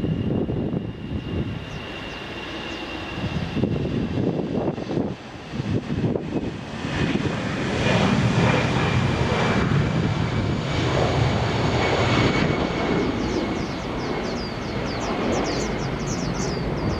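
Jet airliner engines running with a deep rumble and a thin steady whine, growing louder about seven seconds in. Near the end, a rapid series of short high chirps sounds over it.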